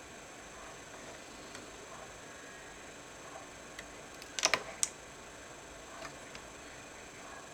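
A few small, sharp clicks and taps, like small plastic or metal laptop parts being handled. The loudest is a quick cluster of clicks about four and a half seconds in, over a faint steady hiss.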